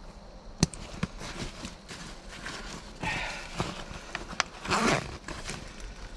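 Rustling and scattered sharp knocks of a person moving about and handling gear, with a louder stretch of rustling near the end.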